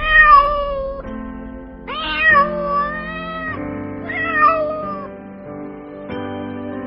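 Cat meowing three times, each a drawn-out call that bends in pitch, the second the longest, over soft background music.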